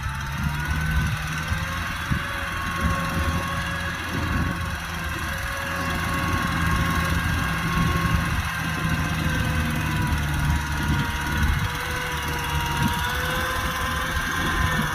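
Kubota tractor's diesel engine running steadily under load in a muddy field, with a high whine over it that wavers slowly up and down in pitch.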